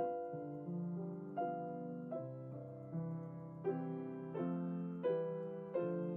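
Piano playing slow chords, a new chord struck about every three-quarters of a second and left to ring and fade.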